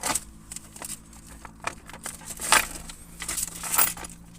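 Rustling and rummaging through bags and packets, with irregular crinkling and scraping bursts, the loudest about two and a half seconds in and again just before the end, over a faint steady hum.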